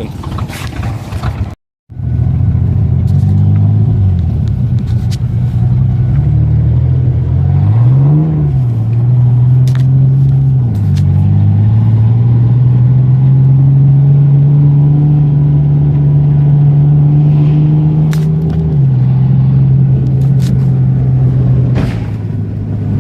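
A vehicle engine running as it drives off-road. Its pitch rises and falls with the throttle a couple of times, holds steady for several seconds, then drops back near the end. The sound starts after a brief cut to silence about two seconds in.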